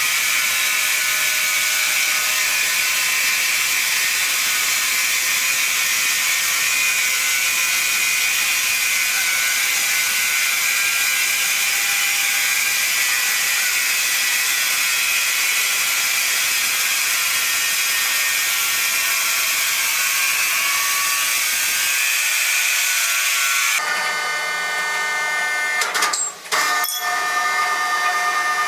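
Sawmill machinery running steadily with a high, hissing whine and little bass. Near the end it switches abruptly to a different machine sound, broken by a couple of sharp knocks.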